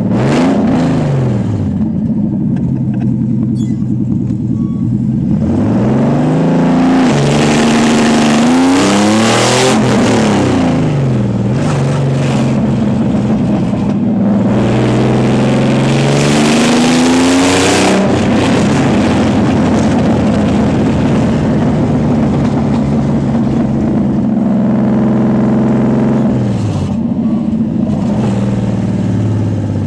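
Naturally aspirated Nissan 300ZX (Z32) 3.0 V6 running with no exhaust while being driven: loud, with the revs climbing and dropping several times through gear changes, then holding steadier for several seconds before another shift near the end.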